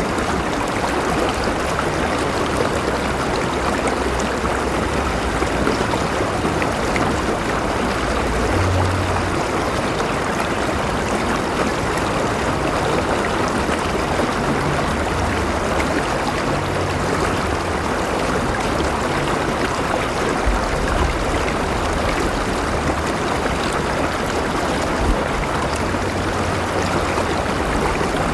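Flowing river water running steadily, an even rushing and babbling over the stream bed with no breaks.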